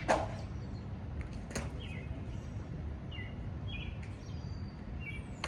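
Small birds chirping in short repeated calls over a steady low rumble, with a sharp knock just after the start and another at about a second and a half.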